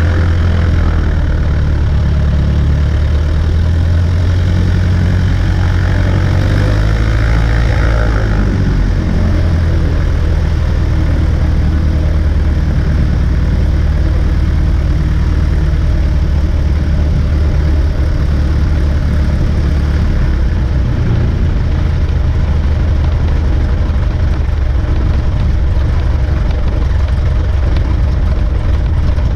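Cessna 140A's light-aircraft piston engine and propeller running steadily, with a slight shift in the engine note about eight seconds in.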